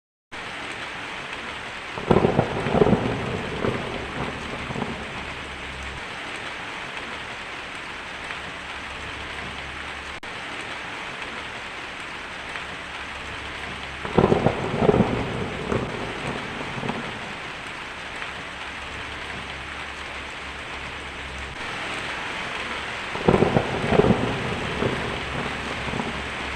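Steady rain on a thunderstorm, with thunder breaking out three times, about two seconds in, near the middle and near the end, each a short cluster of sharp cracks and rumble.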